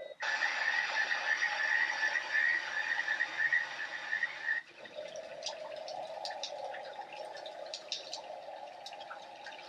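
Ambient nature recordings from the White Noise app played back one after another. First comes a dense, continuous chirping chorus, which cuts off abruptly about four and a half seconds in. Then comes a steady trickle of running water with scattered drips.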